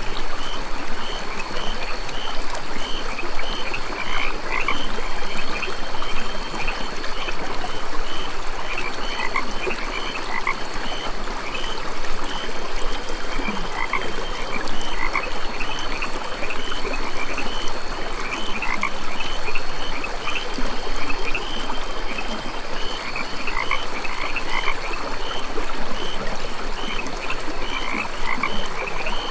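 A chorus of frogs croaking, with short calls repeated in clusters throughout, over a steady hiss.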